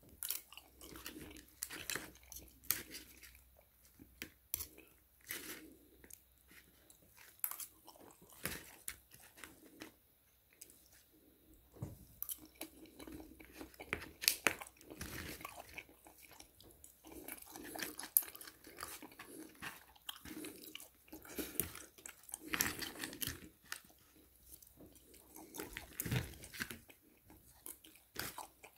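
Close-up chewing and crunching of fried chicken, many short irregular crunches and mouth sounds, with a knife and fork now and then clicking and scraping through the crisp coating on paper wrappers.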